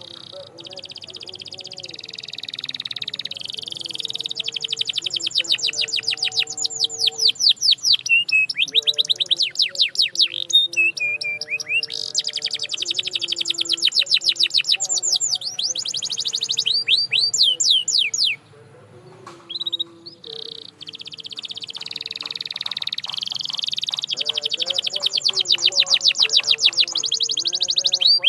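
Canary singing long trilled phrases: rapid runs of quick, repeated downward-sweeping high notes, building in loudness, with a short pause about two-thirds of the way through before the song resumes.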